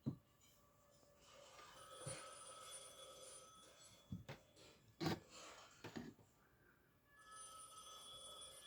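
A telephone ringing, two rings about four seconds apart, with a few sharp knocks in between that are the loudest sounds.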